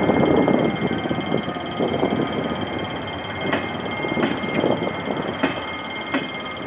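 Passenger coaches of a train rolling slowly past at close range, a steady rumble broken by irregular knocks as the wheels cross the rail joints at the level crossing.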